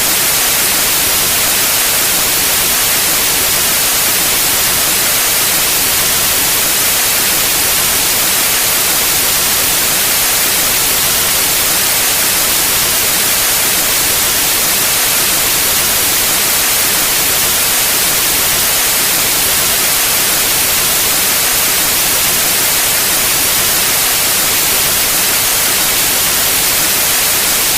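Pure white noise: a steady, unbroken hiss, brightest in the high range.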